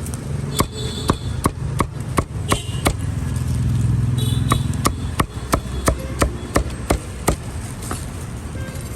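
A cleaver chopping through roast poultry, a run of sharp chops about three a second with a short pause in the middle. A steady low traffic rumble runs underneath and swells as a vehicle passes about four seconds in.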